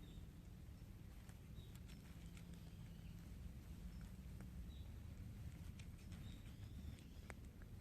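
Faint outdoor background at the edge of near silence: a steady low rumble, with a few faint, short high chirps and scattered light clicks.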